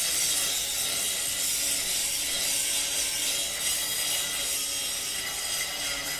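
Lathe running: a steady mechanical whir with several steady tones, the sound of the motor and gearbox, starting abruptly.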